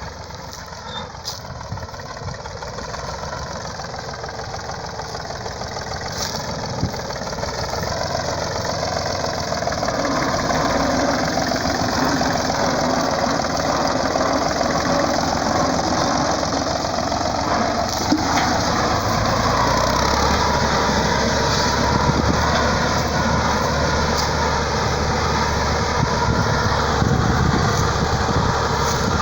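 The KD12 tractor's engine running steadily, growing louder over the first ten seconds and then holding at a steady working level as it builds ridges for sweet potato.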